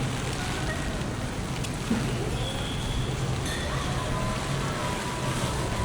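Steady rain and city street noise during a typhoon, with a single short knock about two seconds in.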